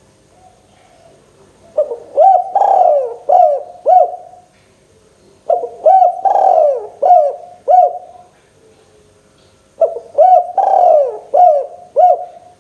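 Spotted dove (tekukur) cooing loudly: three phrases about four seconds apart, each a quick run of about five cooing notes.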